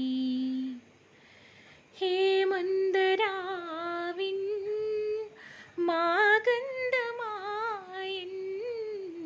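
A woman humming a tune unaccompanied, in long held notes that bend up and down in pitch, with a short pause about a second in.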